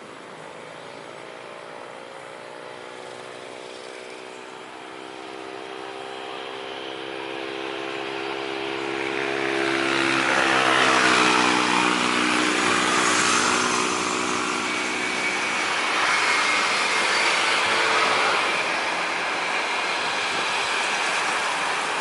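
Citilink airliner's engines at full takeoff power on its takeoff run, growing steadily louder as it comes closer, loudest about eleven seconds in with tones sweeping down in pitch as it passes, then staying loud as it moves away.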